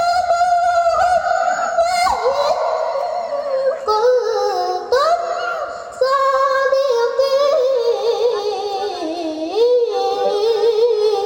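A single high voice recites the Quran in slow melodic tilawah. It holds long notes and ornaments them with wavering turns, pausing briefly between phrases.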